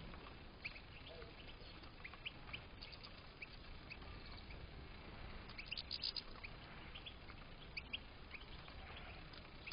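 European goldfinches giving short, scattered chirps, with a quick burst of twittering about six seconds in.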